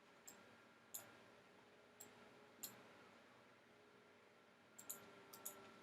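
Computer mouse clicking faintly: single clicks about a second apart, then quick pairs of clicks near the end, over a faint steady hum.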